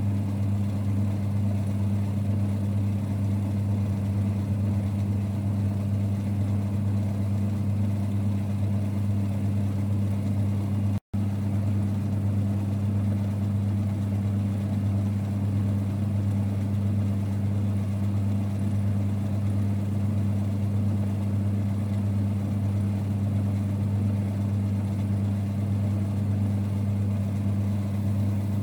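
1946 Boxford lathe running at a steady speed, a constant low rumble and hum that does not change. The sound cuts out for an instant about eleven seconds in.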